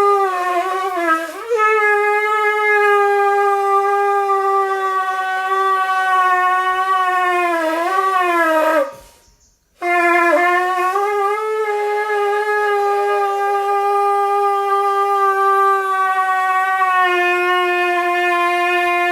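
A shofar blown in two long blasts. The first wavers in pitch as it starts, holds steady, then bends up and down before breaking off about nine seconds in; after a short pause the second blast holds a steady tone and is still sounding at the end.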